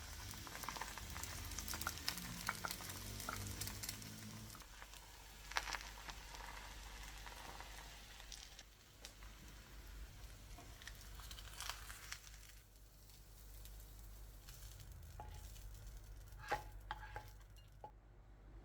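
Food sizzling quietly in a pan as it is stirred, with a few sharp clicks of a utensil against the pan.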